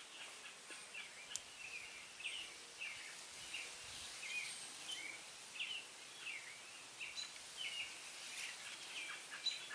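Small birds chirping, many short, high calls in quick succession, over a faint steady outdoor hiss.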